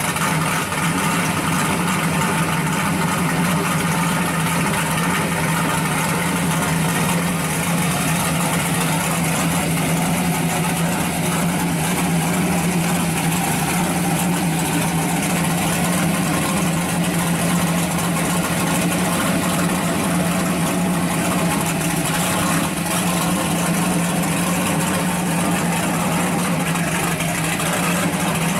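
1966 Chevrolet Chevelle SS drag car's engine idling steadily while the car creeps forward at walking pace, with no revving.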